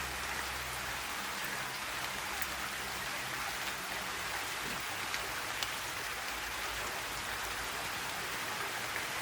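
Steady rain falling and pattering on surfaces, with individual drops ticking now and then over the even hiss.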